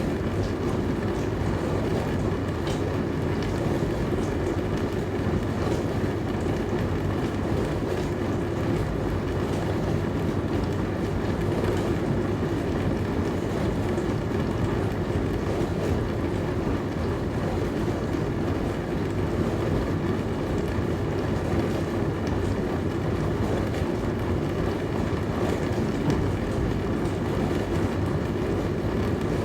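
Dishwasher running: a steady, unbroken rush of water spraying inside the tub over the hum of its motor.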